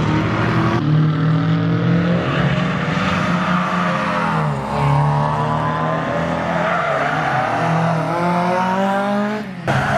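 Car engine running hard at high revs, its pitch dipping about halfway through and climbing again. The sound breaks off abruptly about a second in and again near the end.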